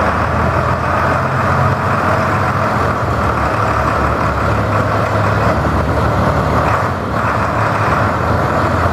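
New Holland 8260 tractor's 6-litre diesel engine running steadily, dipping briefly about seven seconds in.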